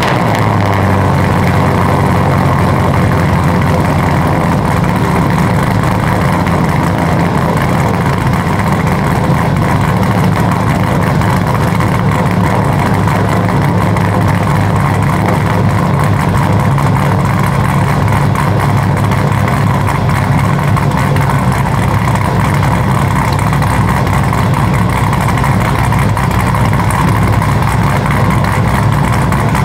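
5th-gen Chevrolet Camaro SS's 6.2-litre V8, fitted with a TSP Stage 4 camshaft, idling steadily.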